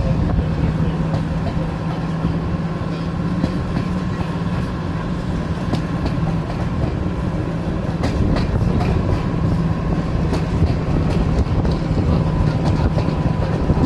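Diesel-hauled passenger train running, heard from an open carriage window: a steady rumble of wheels on the rails with a low, even drone and occasional light clicks from the track.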